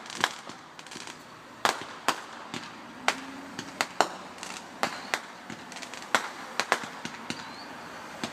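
Fireworks going off in an irregular string of sharp bangs and pops, about two a second, over a steady background hiss.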